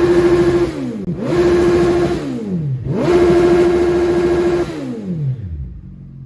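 Motorcycle engine with an aftermarket exhaust revved three times. Each time it climbs, holds at high revs briefly and falls back to idle, the third hold lasting longest, and it settles near the end.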